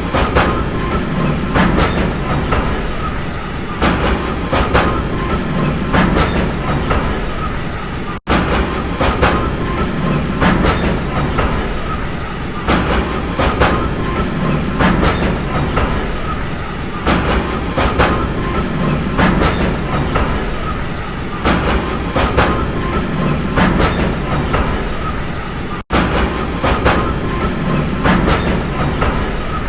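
Train running along the track: a steady low rumble with the regular clickety-clack of wheels passing over rail joints, the clicks coming in close pairs. The sound briefly cuts out twice, about 8 and 26 seconds in.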